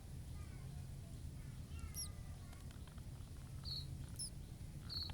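Newly hatched nestlings cheeping in the nest: a few short, thin, high peeps, some falling in pitch, scattered through, over a low steady rumble.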